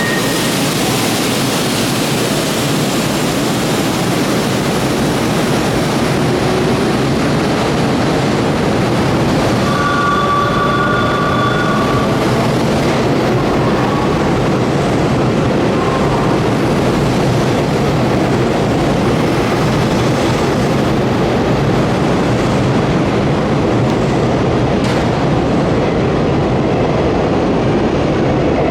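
Hanshin Main Line electric train moving alongside the platform, its wheels and motors making loud, steady rail noise, with a brief pair of high tones about ten seconds in.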